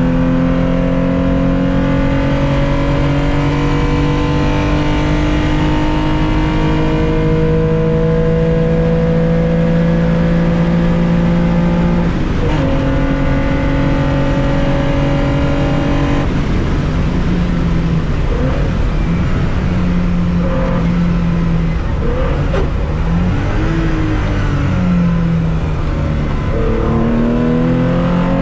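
Air-cooled 2.0-litre flat-six of a 1965 Porsche 911 heard from the cockpit under racing throttle. Its pitch climbs slowly through a long pull, with a gear change about twelve seconds in. After about sixteen seconds the throttle comes off and the revs rise and fall unevenly, then the engine climbs again under acceleration near the end.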